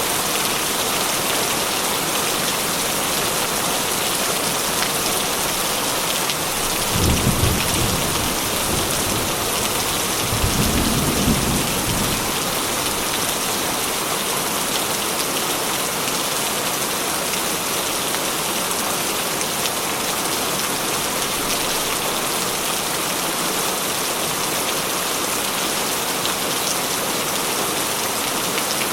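Steady heavy rain drumming on a corrugated metal roof, with two short low rolls of thunder about seven and ten seconds in.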